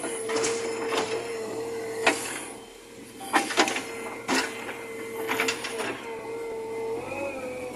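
A JCB 3DX backhoe loader working, with a steady machine whine and hum. Sharp metallic clanks come every second or so, and the whine rises briefly near the end.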